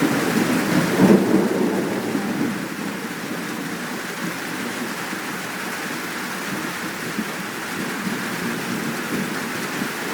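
Steady downpour of rain with thunder rumbling: a louder roll in the first two seconds, peaking about a second in, then dying away under the rain.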